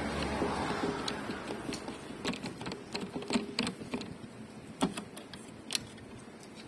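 Irregular light clicks and taps, a dozen or so spread over several seconds, with a soft hiss during the first two seconds.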